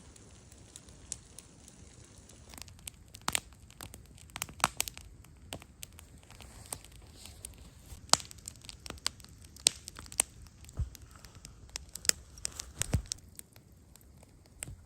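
Irregular sharp crackles and snaps, scattered unevenly with a few louder ones, like dry material crackling.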